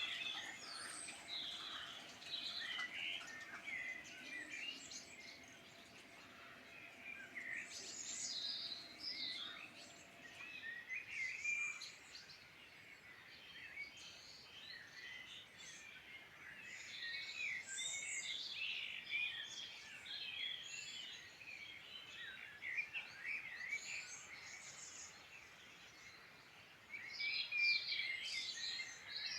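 Several wild songbirds singing at once, a dense chorus of chirps and trills that swells and ebbs in bursts. A faint low hum underneath fades out about ten seconds in.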